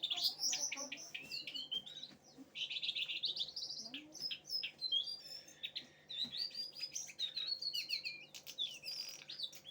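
A cingcoang songbird singing a long run of fast, varied chirps, whistled glides and trills.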